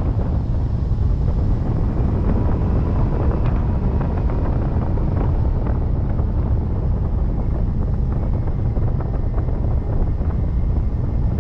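Wind rushing over the microphone of a glider pilot in flight, a steady heavy buffeting with no breaks.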